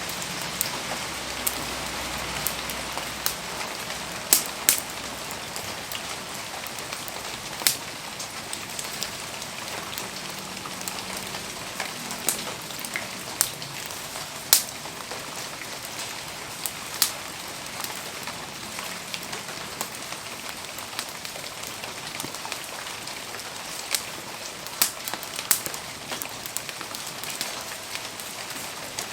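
Steady rain falling around a wood campfire, a continuous hiss with scattered sharp pops and crackles every second or two.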